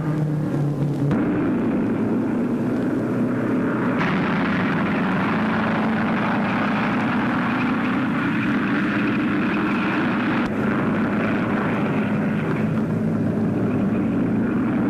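Racing car engines running at speed in a steady drone, the sound shifting abruptly about a second in, four seconds in and ten seconds in.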